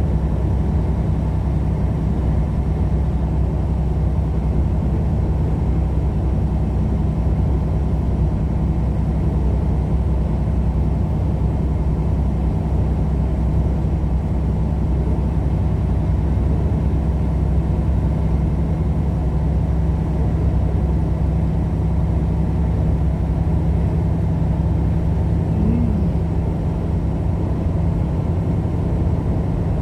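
Steady engine and road noise of a vehicle driving at a constant speed, a low even rumble with no changes.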